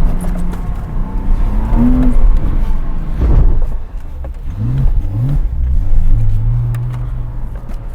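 Porsche Cayman 987's 2.7-litre flat-six engine running under varying throttle. Its pitch rises sharply twice in quick succession about halfway through, then settles into a steadier drone.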